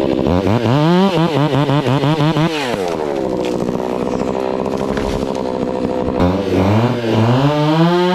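Gas chainsaw running at high revs, its pitch wavering rapidly up and down. It falls back to a rougher, lower run partway through and rises again about six seconds in.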